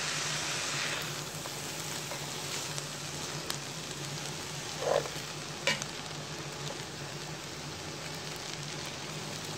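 Curry vegetable fried rice sizzling in a pot as it is stirred with a spoon, with a few short clicks of the spoon against the pot. A steady low hum runs underneath.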